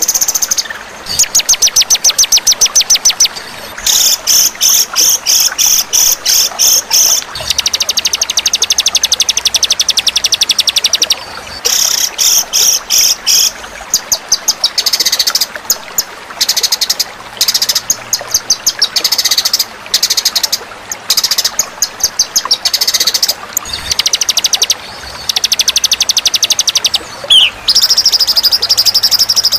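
Songbird singing in rapid high trills: runs of fast repeated notes, each a second or more long, with brief breaks between them.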